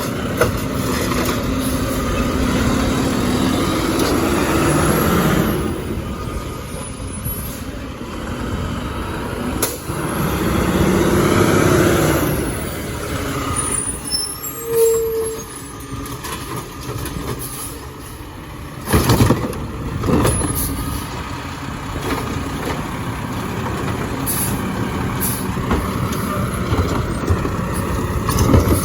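Garbage truck running, with a loud, steady engine noise that swells and eases. There are two sharp knocks about 19 and 20 seconds in.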